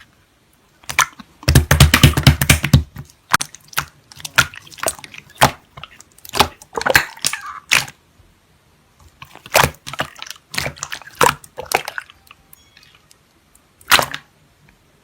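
Slime being squeezed and pressed by hand, giving wet clicking pops and crackles as air pockets burst, with a dense burst of rapid crackling near the start and scattered clicks after.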